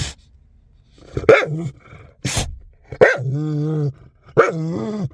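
Dog giving a run of four barking, howling calls, the third drawn out and held for about a second.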